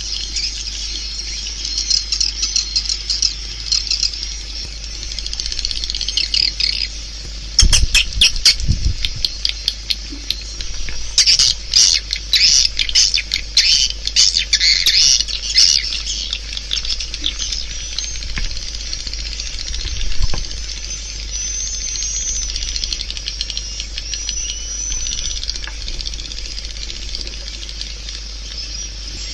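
Swiftlets calling: a dense, high twittering chatter, with bursts of rapid clicking about a third of the way in and again around the middle. This is a swiftlet call-and-roost sound of the kind played from tweeters in swiftlet houses to draw the birds in.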